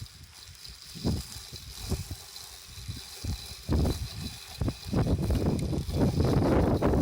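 Wind buffeting the microphone in uneven low gusts, mixed with knocks as a small studded-tyre vehicle jolts over bumpy ground in high grass. From about five seconds in the wind noise becomes steady and louder.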